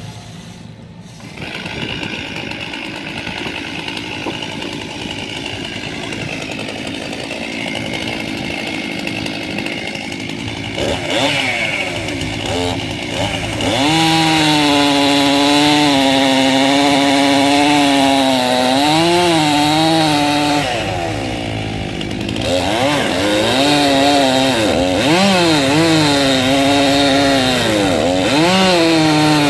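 Circular sawmill blade belt-driven by a 1926 Keck Gonnerman steam traction engine, sawing a log. It runs lighter at first, then goes into the cut about a third of the way in with a loud singing tone that wavers and sags in pitch as the blade takes load. The tone eases briefly about three quarters of the way through, then the blade cuts again.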